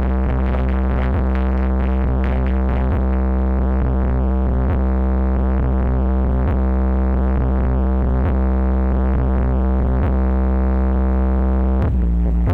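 Electronic music with a synthesizer line over a heavy, held bass tone, played loud through a sound system's subwoofers during a sound check.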